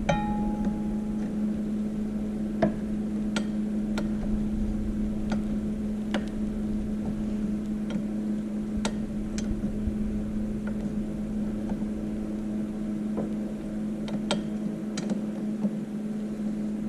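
Truck's diesel engine running at a steady idle, with scattered light metallic clicks and clinks from the work on the dozer.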